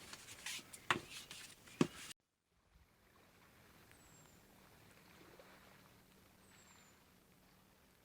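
Gear being handled in a boat's stowage locker: a few sharp knocks and clatters in the first two seconds. Then a sudden cut to faint quiet ambience with a low steady hum and two faint high, short falling chirps.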